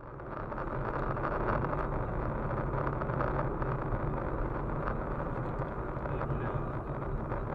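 Steady road and engine noise of a moving car, heard from inside the cabin through a dashcam microphone.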